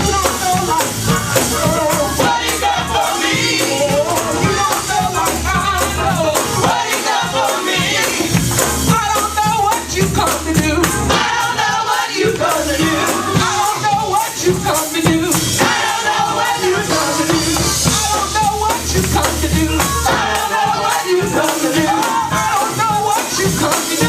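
Live gospel praise music: voices singing over a fast, steady beat with a deep bass line.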